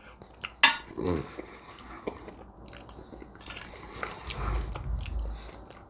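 Close-miked eating: biting and chewing food, with scattered sharp mouth clicks, the loudest about a second in, and a brief low murmur.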